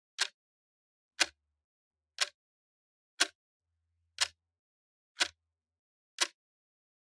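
Clock ticking, one sharp tick each second, with silence between the ticks.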